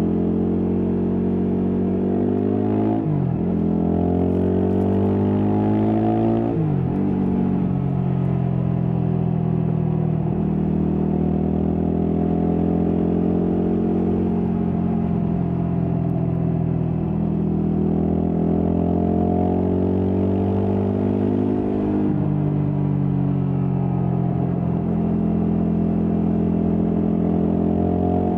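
Stock Yamaha WR250X's single-cylinder four-stroke engine under way, heard from the rider. The revs climb and drop sharply at gear changes about three, six and a half and ten seconds in. After that it runs at steadier revs with a few smaller rises and falls.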